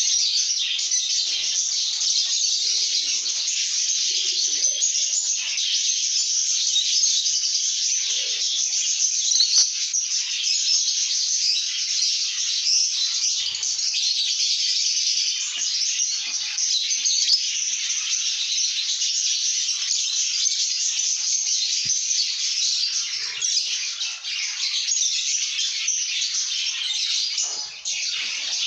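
Lovebirds chattering: a dense, continuous mass of high chirps that never lets up.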